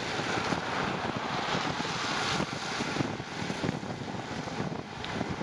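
Wind rushing over the microphone of a moving bicycle, with a gusty low rumble under a steady hiss that eases about halfway through.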